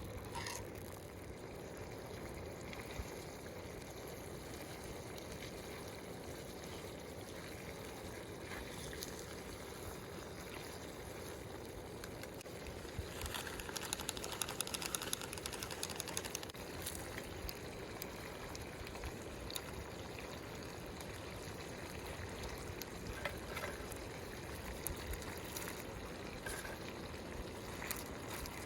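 Food simmering in a pan: a steady low bubbling, with a spell of sharper crackling sizzle a little before halfway.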